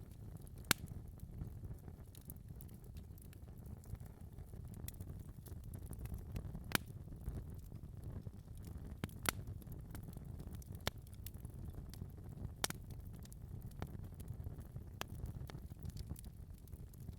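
Fire crackling in a fireplace: irregular sharp pops and snaps, a strong one about a second in, over a steady low rumble of the flames.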